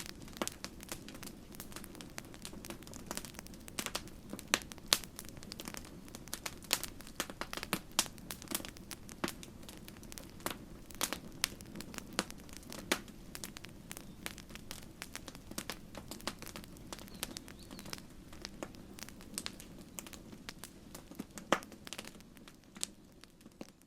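Wood campfire crackling and popping in quick irregular snaps over a steady low rumble of the flames, fading out near the end.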